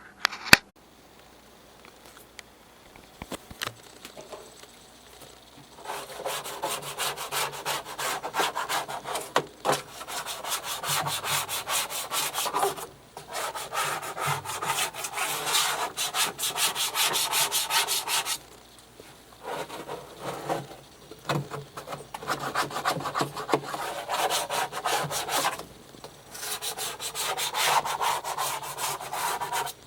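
Rapid, continuous scrubbing strokes on a disassembled washing machine part as it is cleaned, in three long spells broken by short pauses. A sharp click comes near the start.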